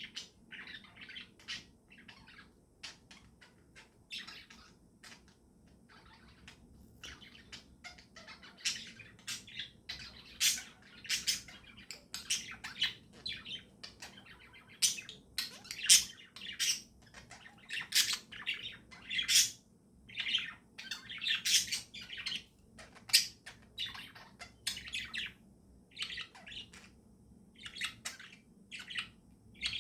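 Pet budgies and lovebirds chirping in a string of short calls, sparse at first and much busier from about eight seconds in.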